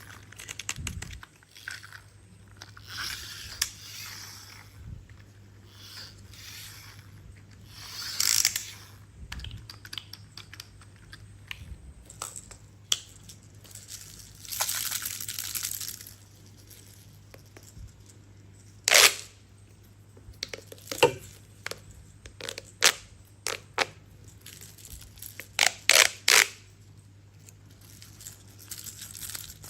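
Handling sounds from a toy log truck and crane set: rustling scrapes and a series of sharp clicks and knocks, with a loud knock about two-thirds in and a quick cluster of clicks near the end, over a faint low hum.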